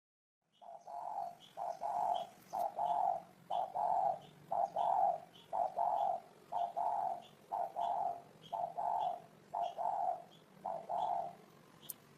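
Spotted dove cooing: a long, regular series of low coos, many in close pairs, starting suddenly about half a second in and stopping shortly before the end. Faint short high chirps repeat alongside them.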